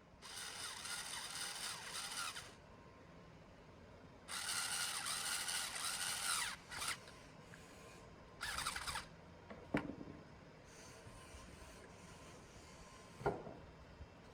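Workshop tool noise: three spells of harsh scraping, each one to two seconds long, then two sharp clicks.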